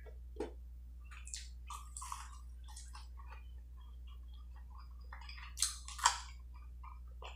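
Close-miked chewing of a crispy fried chicken nugget: scattered soft crunches, wet mouth clicks and smacks, with two louder ones about five and a half and six seconds in, over a low steady hum.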